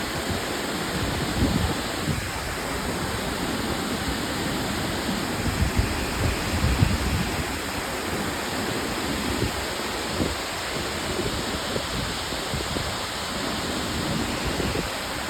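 A steady rushing noise with uneven low rumbles underneath, strongest a little after the middle.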